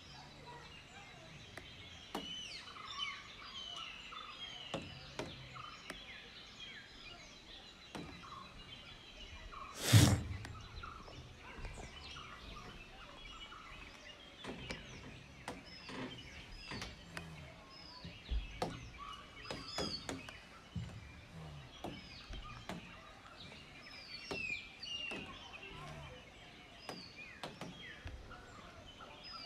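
Many birds chirping and calling in the forest, short overlapping calls throughout. A faint steady high tone runs for the first eight seconds or so, and a single loud thump comes about ten seconds in.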